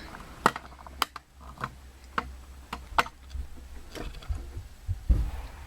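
A series of sharp, separate clicks, roughly one every half second at uneven spacing, over a faint low hum.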